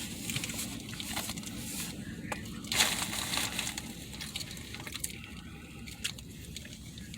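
Plastic mayonnaise packets being torn open and squeezed onto a sandwich, with paper and plastic wrappers crinkling and small clicks throughout. There is a louder rustle about three seconds in.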